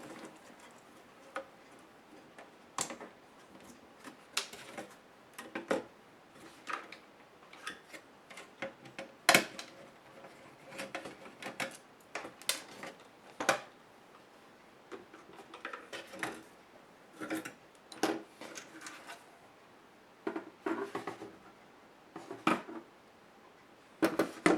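Irregular clicks, taps and short rattles of plastic and metal parts of a Compaq HP 6720S laptop being handled, pried and set down during disassembly.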